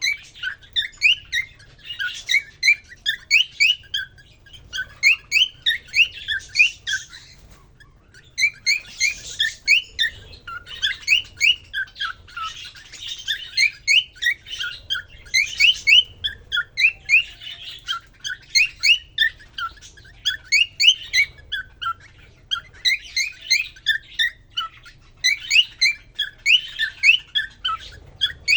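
Male cockatiel singing to a newly introduced female: a fast, continuous run of short rising chirps and warbles, several a second, with a brief break about eight seconds in.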